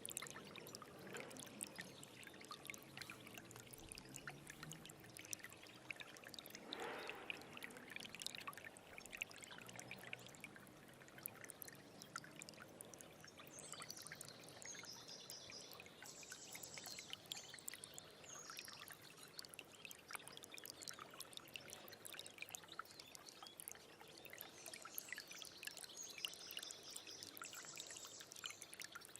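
Small stream of water trickling and splashing steadily, faint, with many small splashes, and short high chirps twice, in the middle and near the end.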